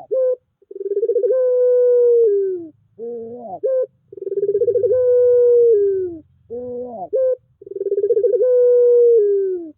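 Puter pelung dove cooing: about three long drawn coos in a row. Each opens with a quavering note, is held for about two seconds while sliding slightly down, and ends in a short rising note.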